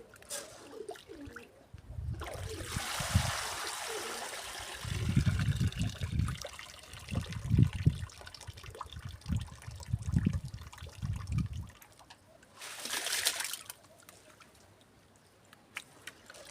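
Water pouring and sloshing as wheat grain is washed by hand, with a long pour and repeated low sloshes, then a second short pour about three-quarters of the way through.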